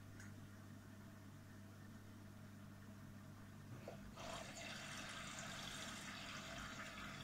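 Samsung Eco Bubble washing machine on a Daily Wash 40° cycle: a low steady hum, then about four seconds in water starts rushing in as the drum fills, lasting about three seconds.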